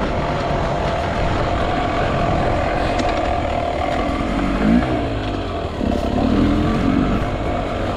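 Enduro dirt bike engine running off-road under changing throttle, its note rising and falling with short revs about five and six seconds in, over a steady drone and rushing noise.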